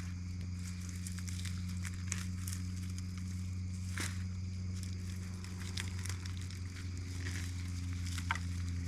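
Scattered crackles and rustles of dry onion tops and papery skins being handled, over a steady low hum.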